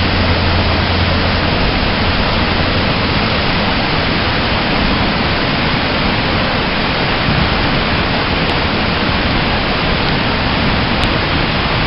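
Rushing whitewater of a river rapid: a steady, loud hiss of moving water with no breaks.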